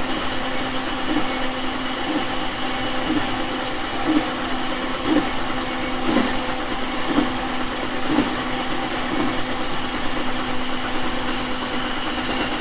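Interior sound of a 701 series 5500 subseries electric train: a steady electrical hum over running noise, with faint clicks about once a second.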